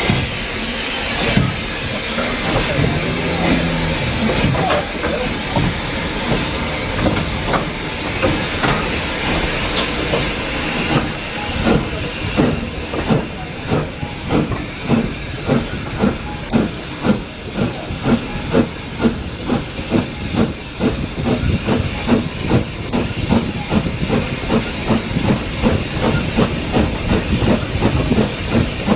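Steam train running, with a steady hiss of steam. From about twelve seconds in, a regular beat of about one knock a second comes in and holds to the end.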